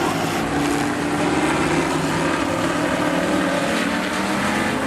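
Engines of several demo race cars running hard around the speedway on the last lap: a steady blend of engine notes with some rising and falling in pitch.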